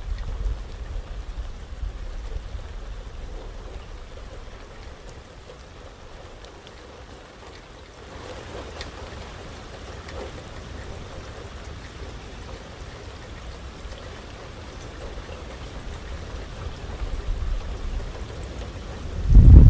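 Steady rain falling, with a low wind rumble that eases over the first few seconds. Just before the end, a sudden loud low gust of wind hits the microphone.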